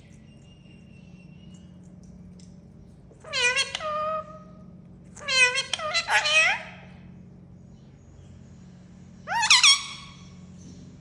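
Three meows, each gliding in pitch, spaced a few seconds apart; the middle one is the longest and breaks into several parts.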